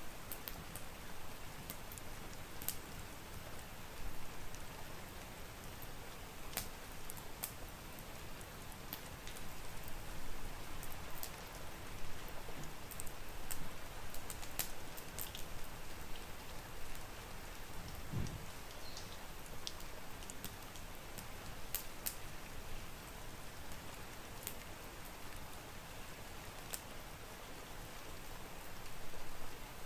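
Steady rain with scattered sharp crackles and pops from a wood fire. A single soft low thud comes about halfway through.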